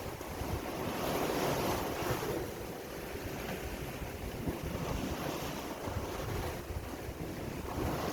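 Sea waves washing and surging in slow swells, with wind buffeting the microphone as a low rumble.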